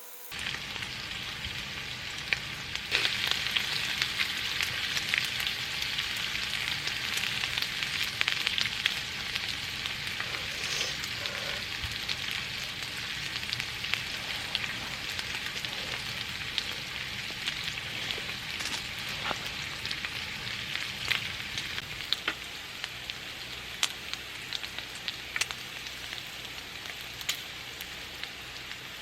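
Food sizzling as it fries in a hot pan: a steady crackling hiss with scattered sharp pops.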